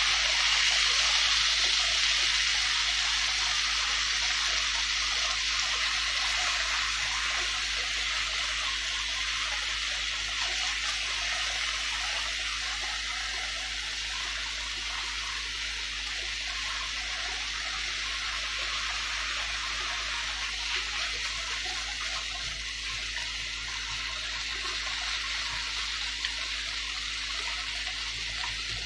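Kimchi and thinly sliced pork belly sizzling in a nonstick frying pan while being stirred with chopsticks: a steady hiss that slowly grows quieter as the kimchi is cooked dry.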